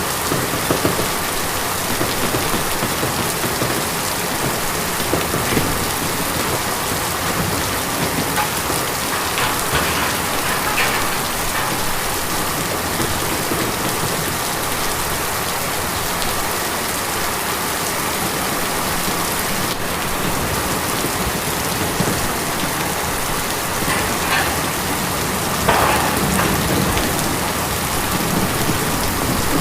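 Steady heavy rain drumming on a tin roof, a dense even patter with a few louder splashes of drops now and then.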